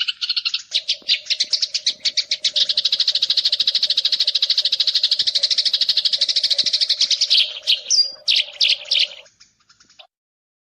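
Eurasian tree sparrows chirping in a fast, continuous chatter of short calls, about ten a second, over a low steady hum. Near the end it breaks into a few separate louder chirps and then stops.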